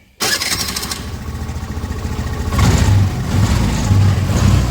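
Honda Activa 3G scooter's single-cylinder engine starting on the electric self-starter and running, with the throttle opened about two and a half seconds in. It starts smoothly, without the earlier self-start noise, now that the fault is fixed.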